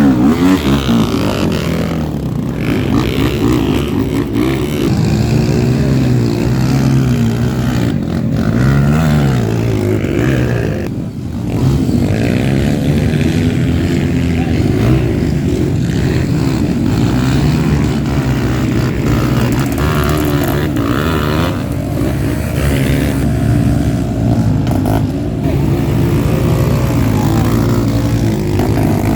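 Trail motorcycle engines revving, the pitch rising and falling again and again as the throttles are opened and closed, with a brief drop about eleven seconds in.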